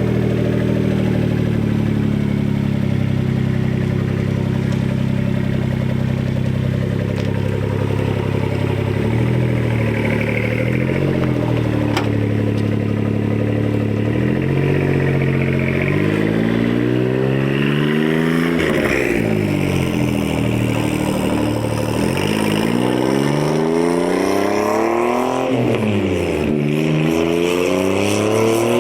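1999 Suzuki Carry kei truck's small three-cylinder engine sounding through its custom exhaust. It runs at a steady pitch for about nine seconds, then revs up and drops back several times as it accelerates through the gears.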